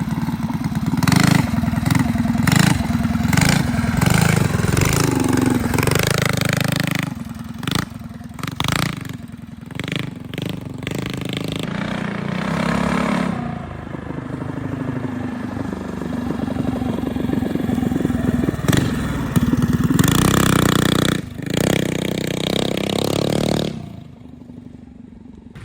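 Mini dirt bike's 212 cc single-cylinder engine revving up and easing off again and again as it is ridden, the pitch rising and falling; it drops away sharply near the end.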